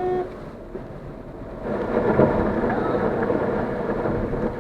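A brief car horn honk at the very start. About a second and a half in, a loud, dense drumming of water against a small car's body sets in and holds for nearly three seconds: heavy rain and spray from waterlogged road beating on the car as it drives through the downpour.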